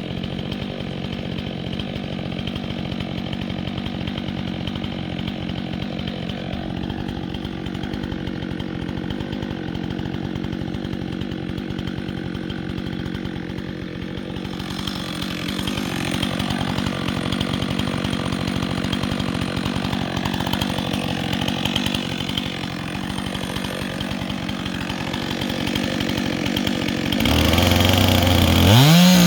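Chainsaw engine running steadily, then revving up sharply near the end.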